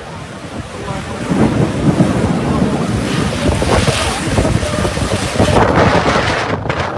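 Strong storm wind buffeting the microphone, a loud gusty rushing that swells about a second in.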